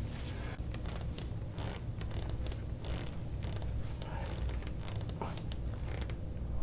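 Treatment table creaking in short, irregular creaks and rubs as pressure is worked into a patient's back during deep massage.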